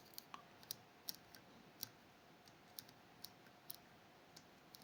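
Faint, irregular small clicks of a pick working the levers inside a Fichet 484 lever sidebar lock.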